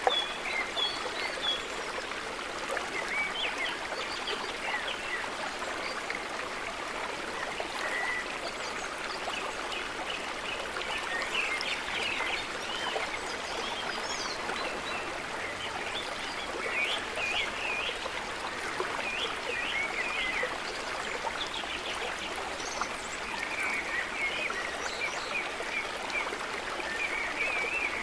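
A steady rush of running stream water, with birds chirping and singing over it throughout.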